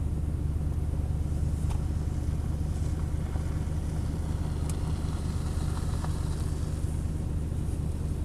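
Pickup truck engine idling: a steady, even low drone.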